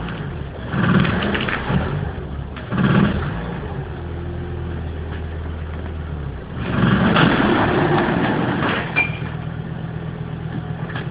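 Volvo 850's five-cylinder engine running, revved in short bursts and dropping back to a steady idle between, with a longer rev about two-thirds through. It is under load, driving the car through the viscous coupling with the front wheels lifted off the ground.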